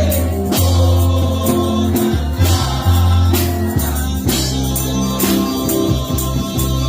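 Christian worship music: singing over a heavy, changing bass line with steady percussion hits.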